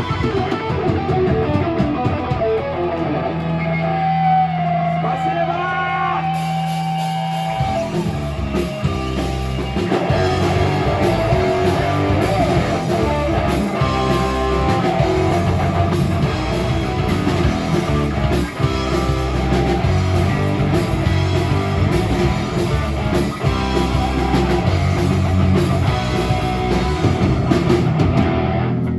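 Live rock band playing with electric guitar, bass and drums. A held low note rings for the first few seconds, then the full band drives in with a steady beat and cymbals from about six seconds in.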